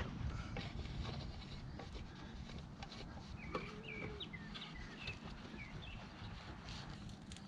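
Faint bird chirps, a few short calls about halfway through, over a low steady background rumble.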